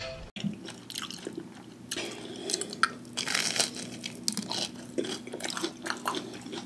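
Biting and chewing a fried pickle spear coated in crushed Flamin' Hot Cheetos: an irregular run of sharp crunches as the coating breaks, starting just after a cut about a third of a second in.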